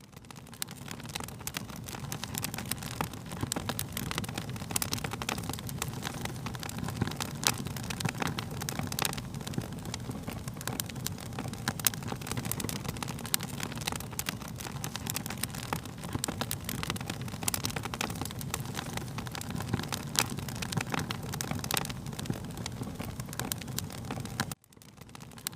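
Wood fire crackling: a steady low rumble of flames with dense, irregular sharp pops and snaps. The sound briefly cuts out near the end, then resumes.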